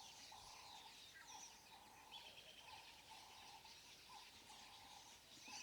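Near silence, with faint bird calls: a short note repeated about every half second to second, and a few higher chirps.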